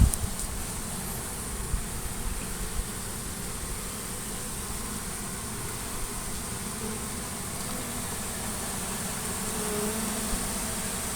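Honey bee swarm buzzing with a steady drone as the bees mill around after being shaken into a nuc box. A few low thumps come in the first three seconds.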